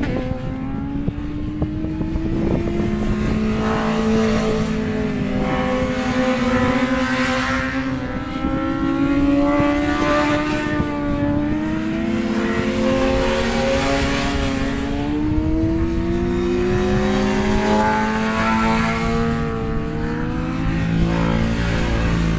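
Racing motorcycle engine running hard on track, its pitch rising and falling slowly as it accelerates and eases off, with gusts of wind noise.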